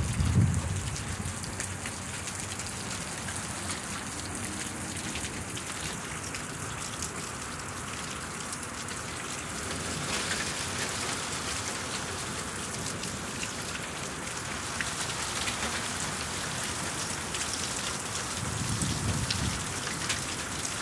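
Steady heavy rain falling, with many close drop hits, growing a little heavier about halfway through. A brief low rumble sounds at the very start and another near the end.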